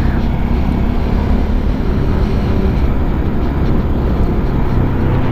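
Peda Tekken 250 motorcycle engine running steadily while riding, under a constant rush of wind and road noise. The engine note rises a little near the end.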